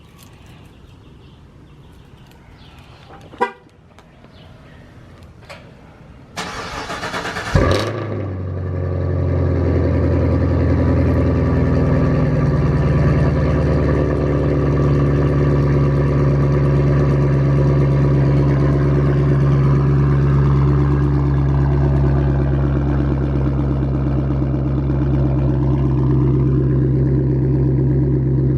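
A 2023 Chevrolet Camaro SS's 6.2-litre V8 starting with its muffler and secondary catalytic converters deleted. A sharp chirp comes about three and a half seconds in, the starter cranks for about a second, and the engine catches with a loud bark before settling into a steady, loud idle.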